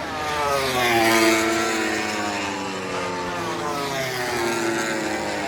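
MotoGP race motorcycle passing at speed, its engine note sliding down in pitch as it goes by. It is loudest about a second in.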